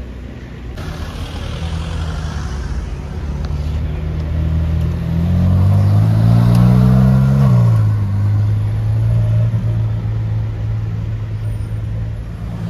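Ferrari sports car engine rising in revs to a peak and then dropping back sharply about halfway through, after which it runs steadily at low revs as the car moves off.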